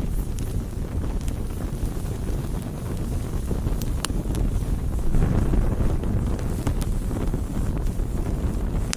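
Wood campfire burning: a steady low rumble with a few sharp crackles and pops from the burning wood. The rumble swells briefly about five seconds in.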